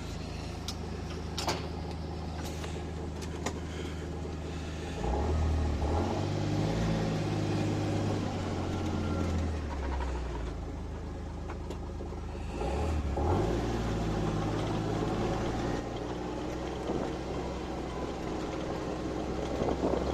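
Utility vehicle engine running as it is driven, picking up revs about five seconds in and again around thirteen seconds, with a few sharp clicks near the start.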